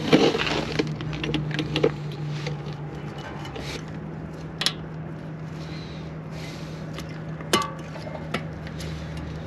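Light metallic clicks and clinks of steel brake pad hardware clips being fitted into a rear caliper bracket, a few scattered sharp snaps, over a steady low hum.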